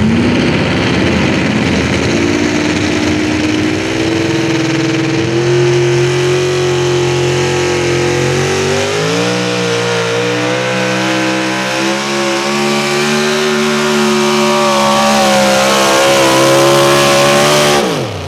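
Modified 4x4 pulling truck's 650 cubic inch naturally aspirated engine running flat out as it pulls the sled. The engine note climbs steadily, dips and climbs again about nine seconds in, and drops away sharply near the end as the throttle comes off.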